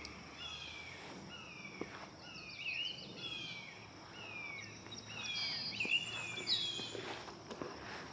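Birds calling outdoors: many short, high calls that slide down in pitch, overlapping at about two a second, with a few faint clicks underneath.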